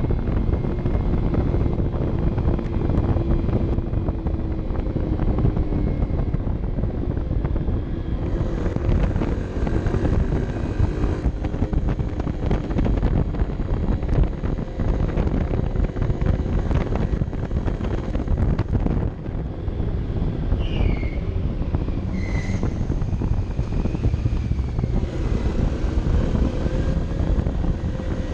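Honda CB 125 F's single-cylinder engine running while riding, heard from an onboard camera with heavy wind rush on the microphone; the engine note drifts up and down with the revs. A few short high chirps come about two-thirds of the way through.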